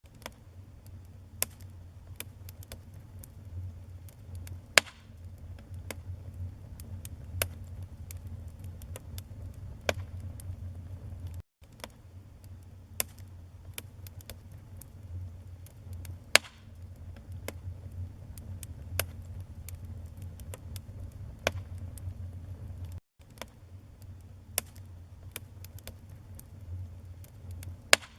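Wood fire crackling: irregular sharp crackles and a few louder pops over a steady low rumble of burning. The sound cuts out briefly twice.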